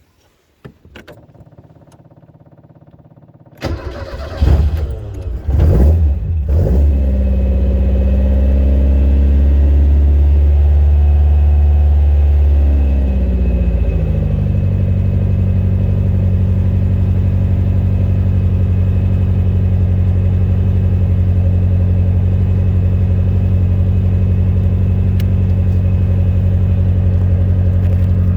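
Birkin Seven's engine being started: a few light clicks, then it cranks and stumbles for about three seconds before catching. It runs at a raised idle for several seconds, then the revs drop to a lower, steady idle.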